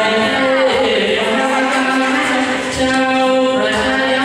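A singer performing a Thai luk thung song live with band accompaniment. The voice holds and bends long notes over a steady beat.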